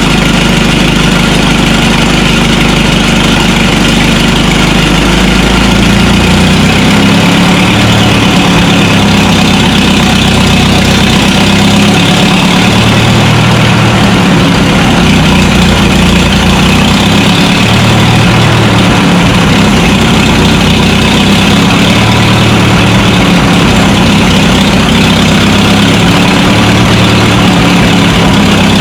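Minneapolis-Moline tractor engine idling. From about six seconds in, its note swells and eases roughly every two seconds.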